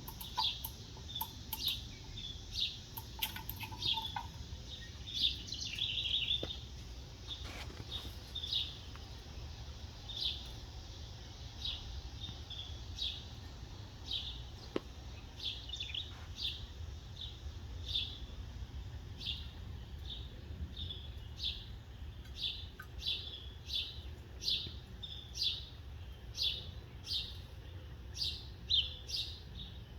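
Small birds chirping, short high chirps repeated throughout, coming faster near the end, over a steady low rumble.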